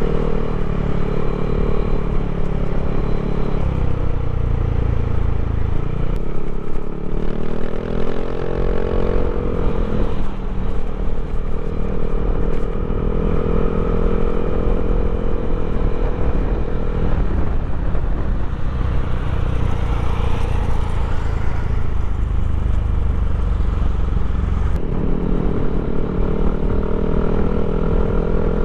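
Yamaha Aerox scooter's single-cylinder engine, bored and stroked to 200 cc, running steadily. Its pitch dips and then climbs again about a quarter of the way in, and shifts once more near the end.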